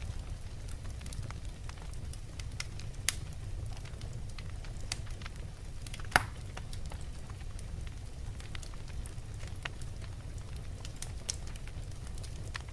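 Wood fire crackling in a fireplace: scattered sharp pops and snaps over a low, steady rumble, with one louder pop about three seconds in and the loudest about six seconds in.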